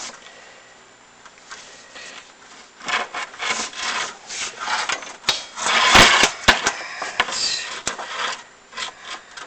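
Chimney inspection camera scraping and rubbing against the inside of a masonry flue in irregular strokes, starting about three seconds in, with the loudest scrape and a sharp knock around the middle.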